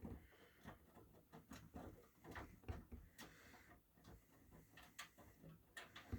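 Miele W1 front-loading washing machine running a PowerWash cycle, its drum turning the wet laundry with faint, irregular clicks and soft knocks over a low rumble.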